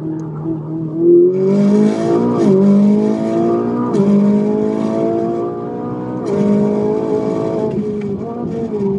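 Car engine heard from inside the cabin under hard acceleration. Its pitch climbs and then drops sharply at each of three upshifts, then holds fairly steady near the end.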